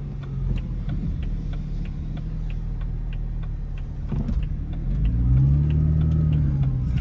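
Car engine and exhaust droning steadily while driving, then rising and easing off in pitch as it gets louder about five seconds in under acceleration. A light, regular ticking runs over it.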